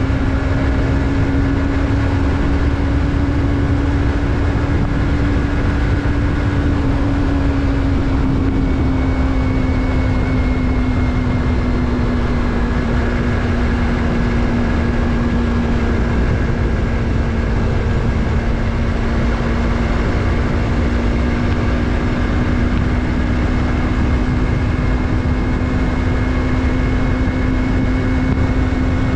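Yamaha MT-03's parallel-twin engine running at a steady cruising speed under way, its pitch easing down slightly through the middle and climbing back near the end, over a steady rush of wind and road noise.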